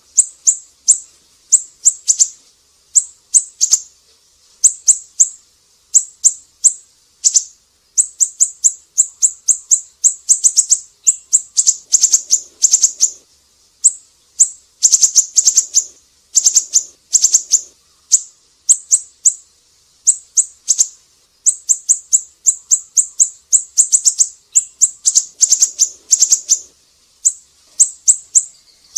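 Siri-siri bird singing: quick series of sharp, high-pitched chirps in bursts of several notes, separated by short pauses.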